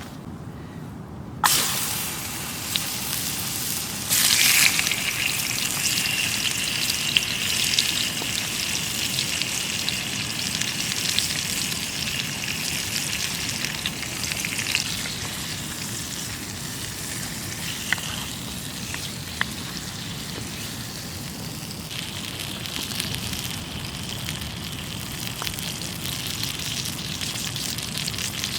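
Food sizzling in hot fat in a pan over a campfire, starting suddenly about a second and a half in and getting louder about four seconds in, with scattered crackles.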